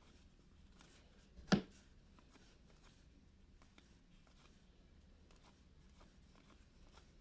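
Faint rustling and small clicks of hockey trading cards being handled and sorted by hand, with one brief louder tap about a second and a half in.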